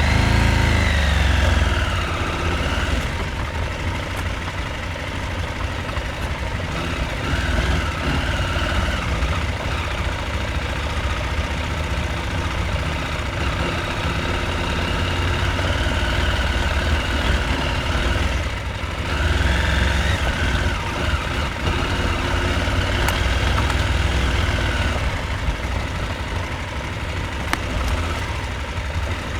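Husqvarna Norden 901's parallel-twin engine running at low to mid revs over rough offroad ground. The throttle opens and closes several times, so the engine pitch rises and falls, over a heavy low rumble.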